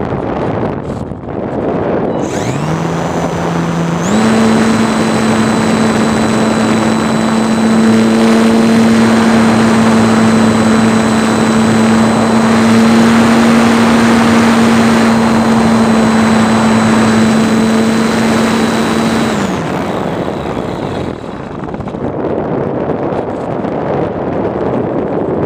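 RC plane's motor throttling up a couple of seconds in, stepping up again shortly after, holding a steady pitch with a thin high whine above it, then throttling down and cutting off about three-quarters of the way through. Wind rush on the microphone throughout.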